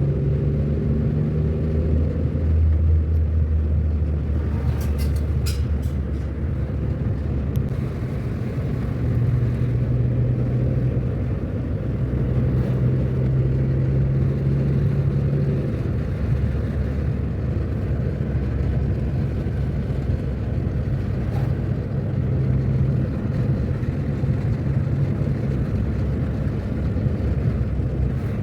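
Car driving on the road: a steady low engine hum with road and tyre noise. A few brief clicks come about five seconds in.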